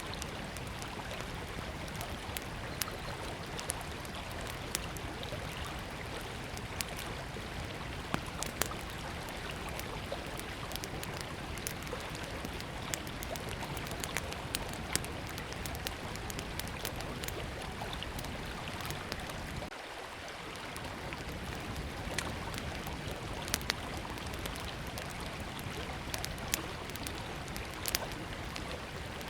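Small wood fire crackling, with sharp pops scattered irregularly, over the steady rush of a flowing river.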